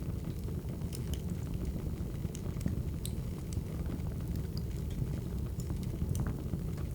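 Wood fire crackling: scattered sharp pops and snaps over a steady low rumble of the burning fire.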